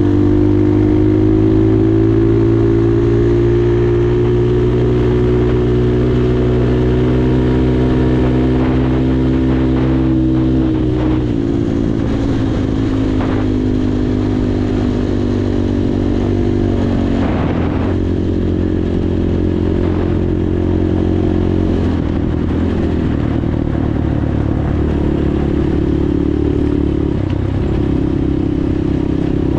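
Progasi Super Max 250 enduro motorcycle's single-cylinder 250 cc four-stroke engine running while riding. The engine note sinks slowly, then shifts pitch about 11 seconds in and again about 17 seconds in, with a few knocks and rattles between about 9 and 13 seconds.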